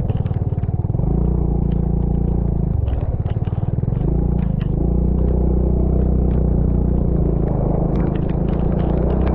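A vehicle engine running under way, its note shifting about a second in and again about three seconds in, with frequent small knocks and rattles over it.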